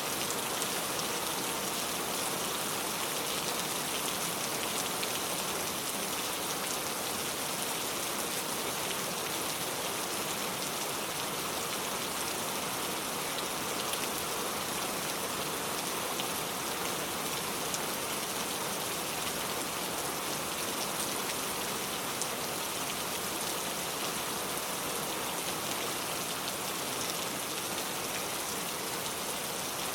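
Steady rainfall, drops pattering on surfaces with faint scattered individual drop ticks.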